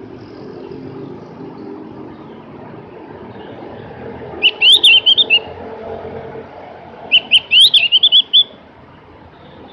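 Javan grey-throated white-eye (opior jawa, also called cucak gentong) singing two short, rapid twittering phrases, the first about four and a half seconds in and the second about seven seconds in. A steady low rumble runs underneath.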